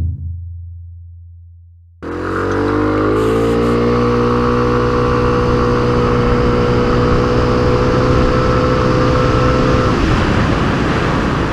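KYMCO Racing S 125 scooter's single-cylinder 125 cc engine under full-throttle acceleration. It starts suddenly about two seconds in, its revs rise for about a second and then hold at a steady pitch while the automatic transmission carries the scooter up toward 60 km/h. It stops near the end.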